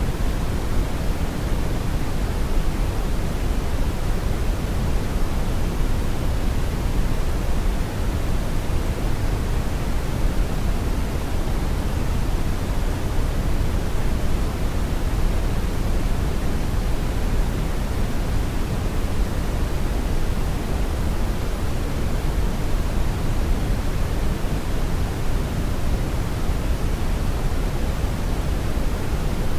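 Steady synthetic brown noise: an even, deep rushing hiss, strongest in the bass and fading toward the treble, with no changes.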